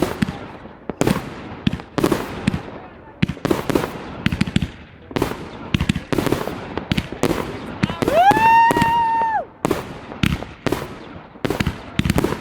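Fireworks going off: sharp bangs about once a second, each with an echoing tail. About eight seconds in, a whistling firework rises quickly in pitch, then holds one high whistle for about a second and a half before cutting off.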